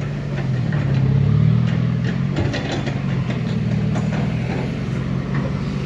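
Six-wheel dump truck's diesel engine running steadily at low revs, with some light clatter.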